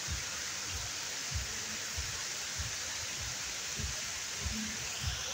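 Waterfall rushing steadily: a dense, even hiss of falling water, with irregular soft low thuds beneath it.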